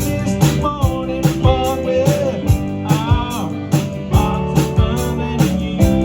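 Band playing a soul-blues groove with drum kit, bass and guitar, a steady beat of about two drum hits a second; a bending lead line rides over it.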